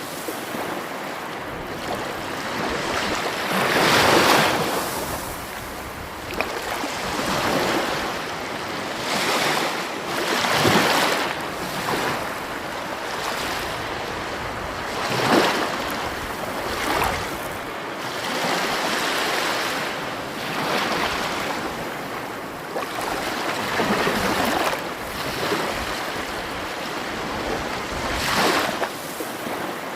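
Sea waves washing onto the shore as a continuous surf wash, swelling and falling back every few seconds.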